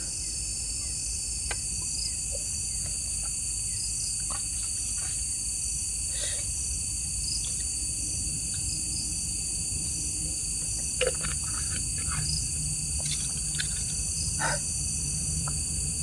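Steady night chorus of crickets and other insects, several high pitched trills held without a break, with a few faint small clicks or rustles scattered through it.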